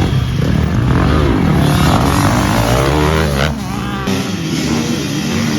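Several small motorcycle engines revving hard and accelerating, their pitch rising and falling with each throttle blip, starting suddenly and loudly.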